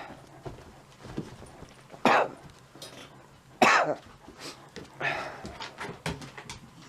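A person coughing: two loud coughs about a second and a half apart, then a softer one.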